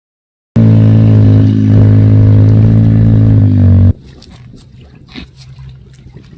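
A loud, steady, low-pitched buzzing tone starts abruptly about half a second in and cuts off abruptly after about three and a half seconds: a sound effect edited in between two segments. Faint background with small clicks follows.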